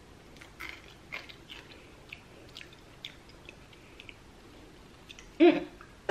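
Mouth sounds of a person chewing a small peach-shaped Japanese candy: soft, scattered wet clicks and smacks. About five seconds in comes a loud vocal sound of disgust at its bad, sour taste, then a second one falling in pitch as she spits it out.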